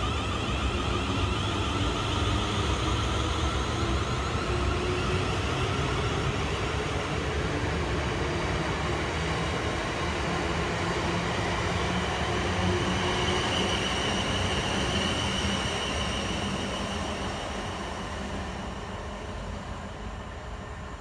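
South Western Railway passenger train running along the platform and away, its wheels rumbling steadily on the rails. The sound fades over the last few seconds as the rear carriages draw off into the distance.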